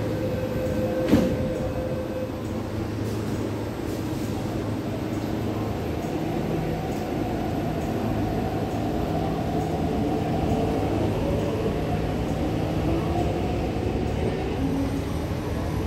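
MTR East Rail Line R-Train electric multiple unit running, a steady rumble with faint steady tones. A sharp knock comes about a second in.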